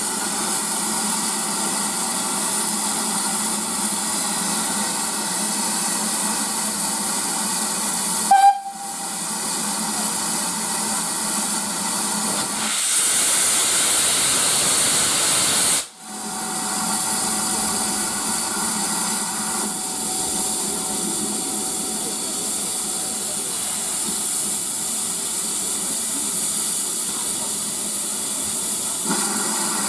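Steam locomotive hissing steadily as steam escapes, with a brief sharp sound about eight seconds in and a louder rush of steam for about three seconds from around thirteen seconds.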